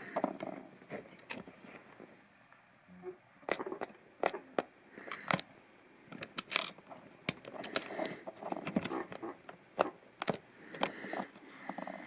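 Plastic LEGO pieces being handled and slid around: many irregular sharp clicks with light scraping between them.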